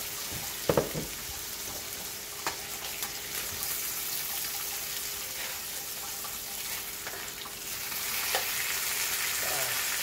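Butter and chicken breasts sizzling in a nonstick frying pan: a steady frying hiss that grows louder near the end as the pan is stirred. A sharp double knock about a second in, and a few lighter knocks later.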